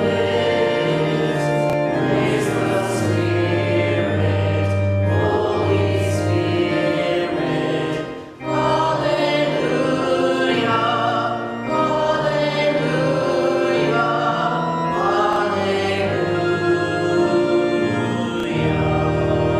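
Church choir singing with accompaniment. The music dips briefly about eight seconds in, and a low chord is held near the end.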